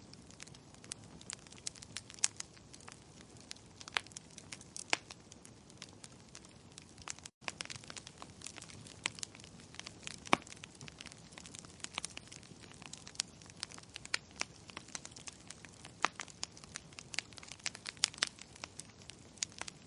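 Wood fire crackling: irregular sharp pops and snaps of burning firewood over a soft hiss. The sound cuts out for an instant a little over seven seconds in.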